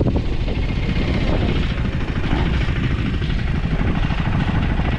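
Motorcycle on the move: a steady low engine rumble mixed with rushing noise, as from wind on the microphone.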